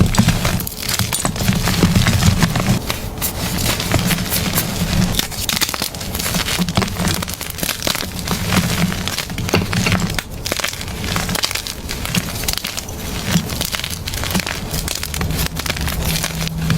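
Blocks of gym chalk being crushed and crumbled, a dense, continuous run of dry crunching and crackling.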